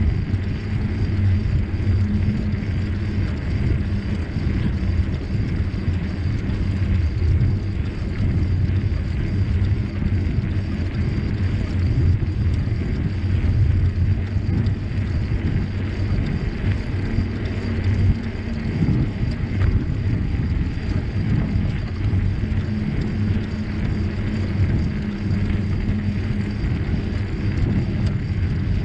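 Steady rumble of a bicycle ride: the bike rolling along a trail, with wind buffeting the microphone.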